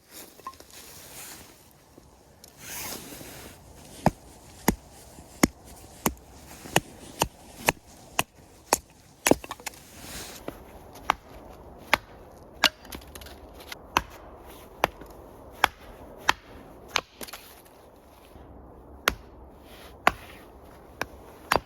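Axe chopping firewood: a long run of sharp wooden chops, about one and a half a second, starting about four seconds in and going on with short pauses.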